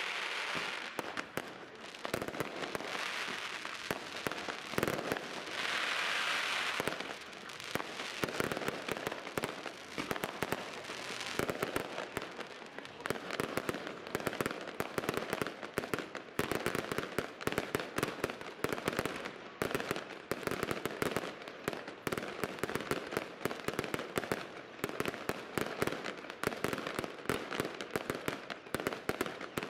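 New Year's Eve fireworks: a dense, unbroken string of bangs and crackles from many rockets and firecrackers going off at once, with louder hissing crackle spells in the first several seconds.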